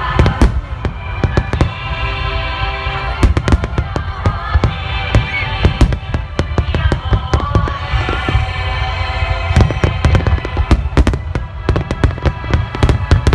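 Aerial firework shells bursting in a rapid barrage, many sharp bangs in quick succession, with music from loudspeakers playing steadily underneath.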